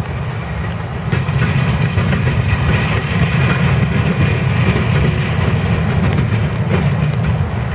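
Cars of a loaded grain train rolling past: a steady heavy rumble of steel wheels on rail, with occasional clicks over rail joints.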